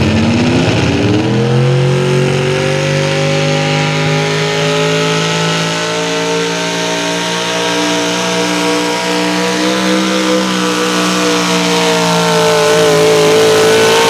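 A modified 4x4 pulling truck's 650 cubic inch naturally aspirated big-block engine on a sled pull. It revs up over the first second and a half as the truck launches, then holds a steady high-rpm howl, sagging slightly in pitch near the end.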